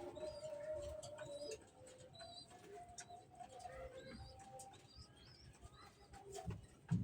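Pigeons cooing, with low swells near the end, mixed with short high chirps and a thin held tone in the first second and a half.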